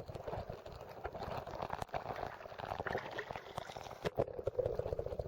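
Running river water gurgling around the angler, with scattered clicks and a sharper knock a little past four seconds in.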